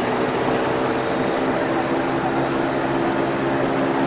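A GoCar's small engine running with a steady, even hum, over the noise of surrounding street traffic.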